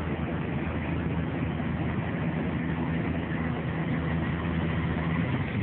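An engine running steadily: a constant low hum over an even rushing noise.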